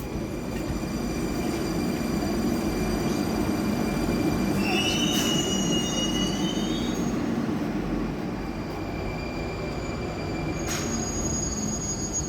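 Moscow metro train rumbling along the platform as it brakes to a stop, with high-pitched brake and wheel squeal that rises and wavers about halfway through and comes back as a thin steady whine near the end, plus a couple of sharp clicks.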